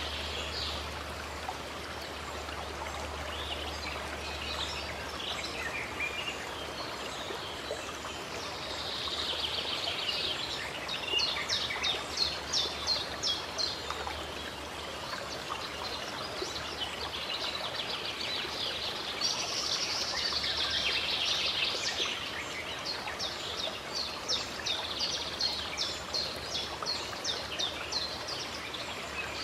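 Birds singing over a steady rush of flowing stream water. Quick runs of high chirps repeat, busiest from about a third of the way in and again through the second half.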